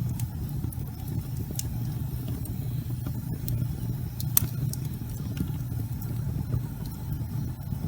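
Wood fire burning in a fireplace: a steady low rumble of the flames with scattered sharp crackles and pops, the loudest pop about four and a half seconds in.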